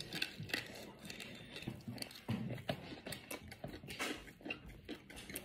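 Close-miked chewing of a mouthful of dhido and chicken: soft, wet mouth clicks and smacks at an irregular pace.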